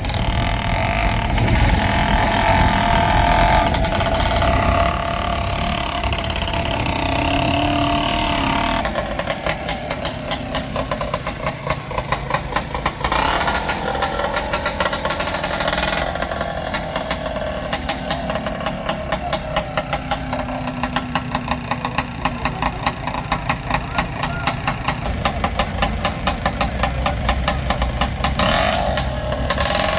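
Diesel engines of the tractors and the stuck truck running under load during a mud pull. About a third of the way in, a close engine's rapid, even chugging beat takes over and stays loud.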